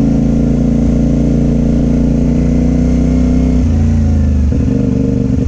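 Motorcycle engine running steadily at low speed, its note changing about two-thirds of the way in as the throttle or gear changes.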